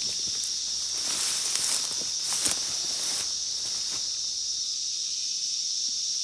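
Loud cicada chorus, a steady high-pitched shrill. For the first four seconds there is also rustling and crunching of footsteps through undergrowth.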